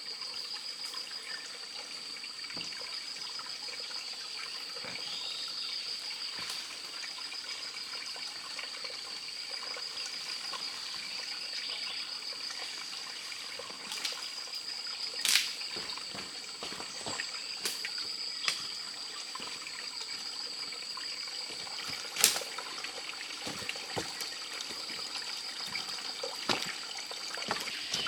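Water trickling steadily over a constant high-pitched drone, with a few sharp snaps or clicks, the loudest about halfway through and again about three quarters of the way in.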